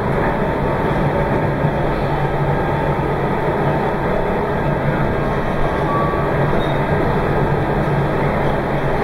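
Meitetsu 2200 series electric limited-express train running at speed, a steady rumble of wheels and motors heard from inside the front car.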